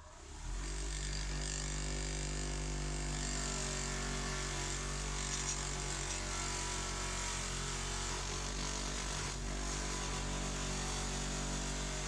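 An electric power tool's motor spinning up over the first half second, then running steadily at full speed.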